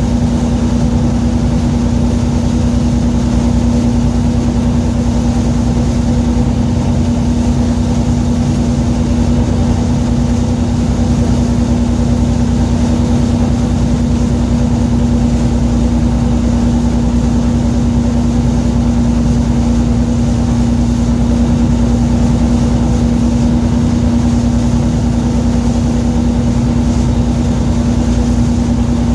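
Fishing boat's engine running steadily, a constant low drone that holds one pitch.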